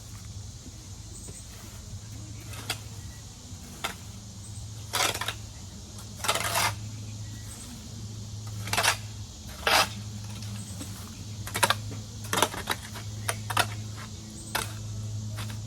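About a dozen irregular short knocks and scrapes, as of things being picked up and moved during garden clean-up, the longest about half a second. A steady low hum runs beneath them.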